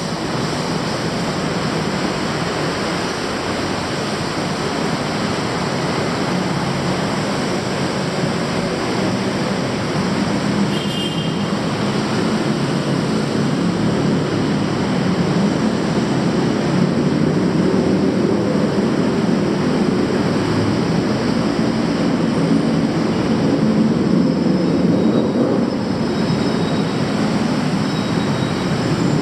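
Loud, steady rumble of heavy city traffic or rail vehicles passing, with brief faint high squeals about eleven seconds in and again near the end.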